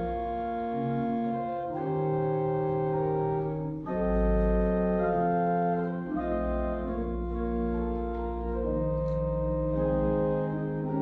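Organ playing slow, sustained chords that change every two seconds or so, over deep held bass notes.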